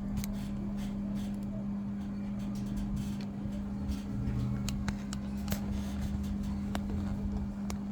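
Samsung ecobubble washing machine on its spin cycle: a steady motor hum over a low rumble, with scattered light clicks and ticks.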